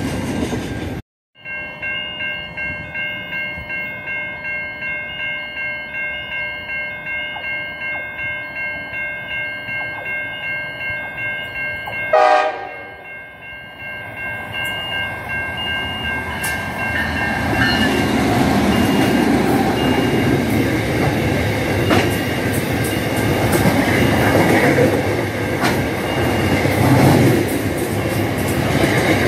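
Level crossing warning bells ringing steadily at about two strokes a second, with a brief loud blast about twelve seconds in. From about eighteen seconds a container freight train rumbles past with a rattle and clatter of wagon wheels.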